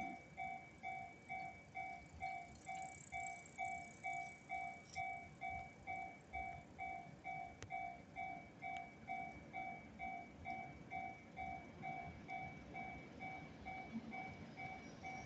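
Japanese railway level-crossing warning bell ringing, an even electronic ding repeating about twice a second, the signal that a train is approaching and the crossing is closing.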